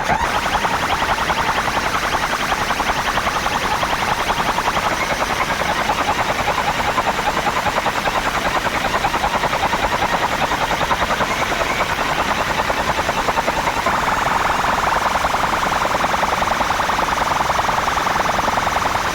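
DJ competition horn: a siren-like electronic horn effect blasted through a large DJ speaker stack. It warbles with a very fast, even pulse and gets brighter and slightly louder about three-quarters of the way through.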